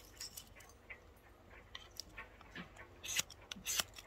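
A steel striker scraped down a ferrocerium fire-starter rod to throw sparks onto tinder: a few short, sharp rasps, the loudest two near the end.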